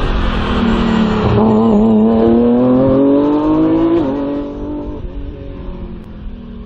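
Race car engine accelerating hard, its pitch climbing steadily for about four seconds, then dropping sharply and fading as the car pulls away.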